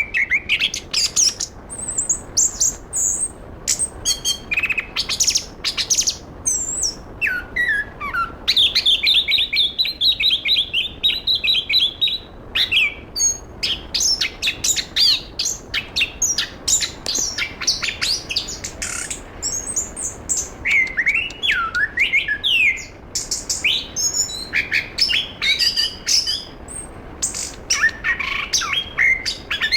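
Chestnut-capped thrush (anis kembang) singing without pause: a fast, varied run of short whistles, chirps and sliding notes, with a rapid trill held for about four seconds a third of the way in.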